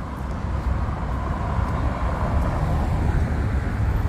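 Road traffic: a steady low engine rumble and road noise from vehicles on a street.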